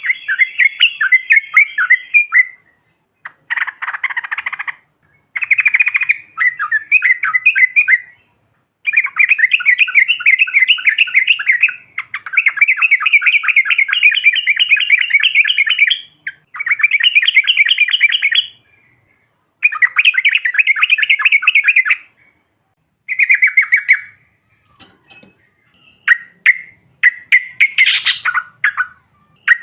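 Yellow-vented bulbul (trucukan) chattering in long, rapid rolling trills: runs of quick notes a few seconds long, broken by short pauses, with shorter, scattered calls near the end.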